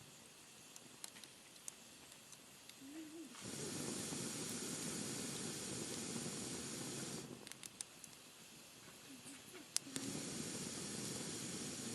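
Wood fire crackling with sharp pops. Twice, a loud breathy hissing rush comes in abruptly, lasts about three and a half seconds each time, and cuts off.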